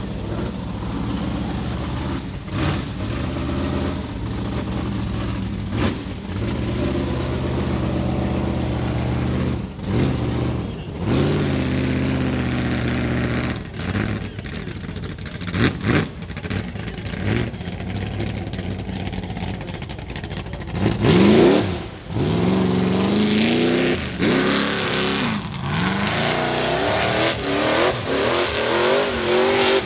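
Rock bouncer buggy engine revving hard on and off, the pitch rising and falling with repeated throttle blips and brief lifts. A sharp rev climbs and drops about three-quarters of the way through.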